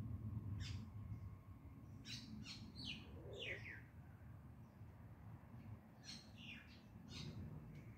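Small birds chirping: short, high calls that slide down in pitch, coming in quick clusters about two seconds in and again about six seconds in, over low steady background noise.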